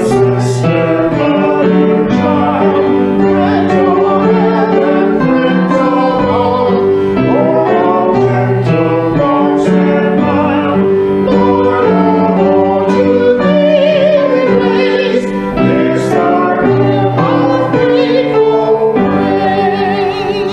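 Music: a hymn sung with keyboard accompaniment, held chords changing every second or so under the voices.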